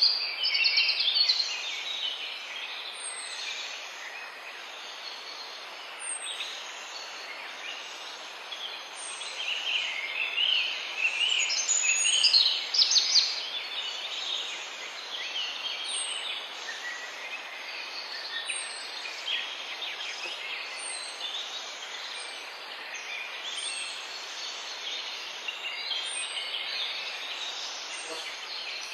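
A chorus of several birds singing, dense chirps and trills that swell about ten to thirteen seconds in. A short, very high, falling note repeats about every second and a half, over a steady background hiss.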